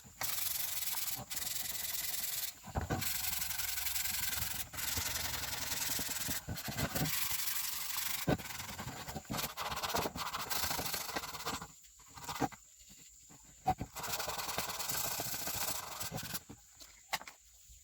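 Sanding: abrasive rubbing over a surface in continuous stretches. It breaks off for a couple of seconds about twelve seconds in, and again near the end.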